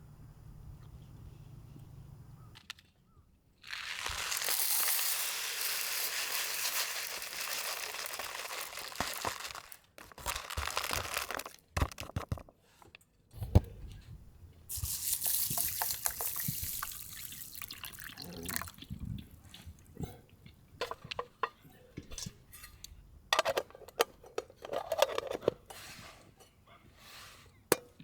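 Water running or being poured in two long spells of several seconds each, followed by scattered clicks and knocks of things being handled.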